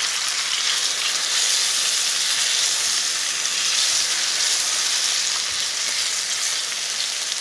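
Flour-dredged chicken breasts frying in olive oil and butter in a skillet: a steady sizzle.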